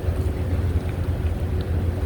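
Wind buffeting the phone's microphone: a steady low rumble that rises and falls.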